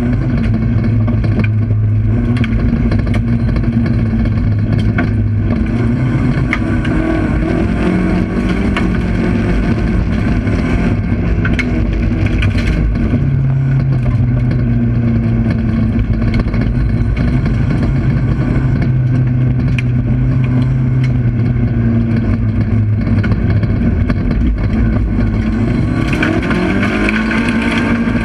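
Race car engine heard from inside the cockpit, running hard at high revs throughout. The engine note drops about five seconds in, jumps back up around halfway, and climbs again near the end, over a steady stream of knocks and rattles.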